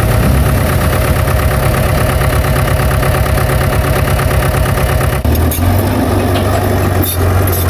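Diesel engine of heavy earthmoving machinery running steadily. About five seconds in, the sound changes abruptly to a lower, steadier hum, with a few sharp clanks near the end.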